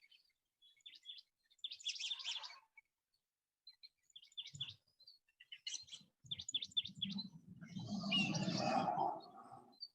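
Small birds chirping in short, repeated trills. In the last few seconds a louder, lower rough sound comes in and lasts about three seconds.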